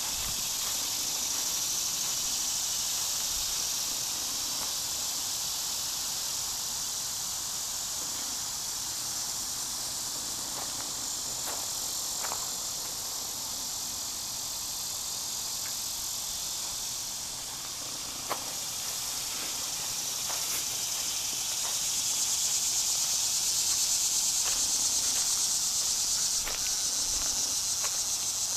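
Steady high-pitched chorus of insects, swelling louder for the last few seconds, with a couple of faint clicks.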